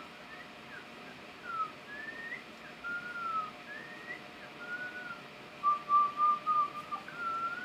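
A single person whistling a slow melody, with gliding slurred notes and a run of short repeated notes about two-thirds of the way through.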